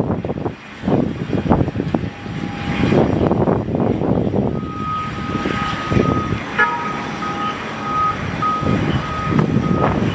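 Gusty wind buffeting the microphone in blowing snow, with an outdoor vehicle or aircraft rumble beneath. About halfway through, a steady high tone comes in and then breaks up into short beeps, like a ground vehicle's warning beeper.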